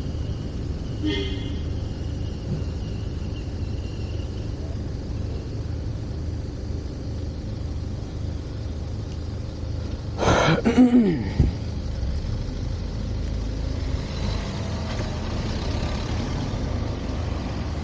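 Steady low rumble of a motorcycle riding along a highway, engine and wind. A brief pitched tone sounds about a second in, and a louder sound with wavering pitch rises over it around ten seconds in.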